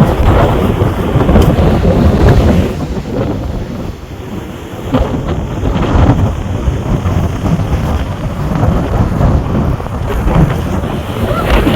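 Hurricane wind gusting with heavy rain, the gusts rumbling on the microphone in surges; the wind eases briefly about four seconds in.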